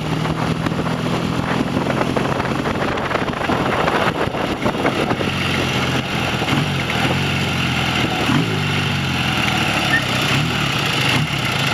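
Classic motorcycle engine running under way on a road ride. The revs hold steady at first, then rise and fall several times in the second half.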